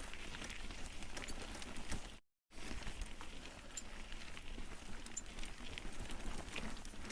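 Mountain bike riding a rough dirt trail: tyres crunching over loose ground and the bike rattling, a steady noisy stream full of small clicks. The sound cuts out completely for a moment about two seconds in.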